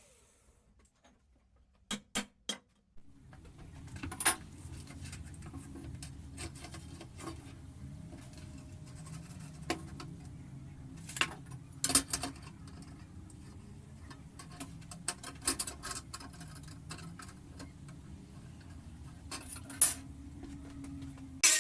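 Light clicks, taps and knocks at irregular moments, over a low steady hum that comes in about three seconds in.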